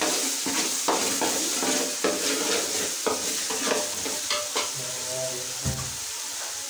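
Ginger frying in hot oil in a pan: a steady sizzle, with a utensil stirring and scraping the pan about twice a second, less often toward the end. The ginger is browning, almost ready for the next ingredients.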